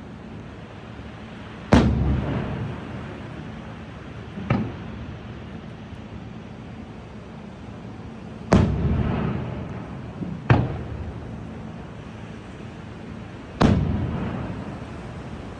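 Fireworks bursting overhead: five loud bangs at uneven intervals, each trailing off in a rolling echo that fades over a second or two.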